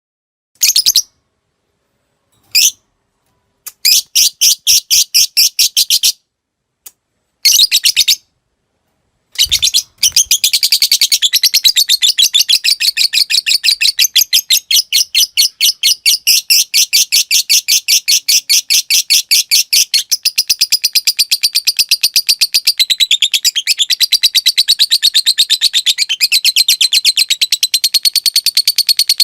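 A lovebird fighter singing, starting with several short bursts of rapid clicking chatter ('ngetik') with pauses between them. From about ten seconds in it breaks into one long, unbroken, high-pitched rattling chatter, the prized 'ngekek panjang'.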